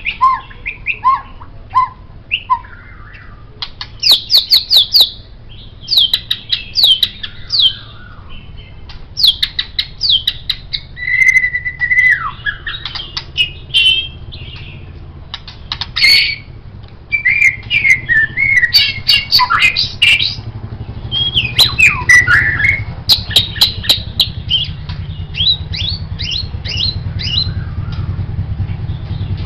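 White-rumped shama singing a long, varied song: rapid whistled phrases, quick descending note runs, chattering and sharp clicks, in bursts with short pauses between.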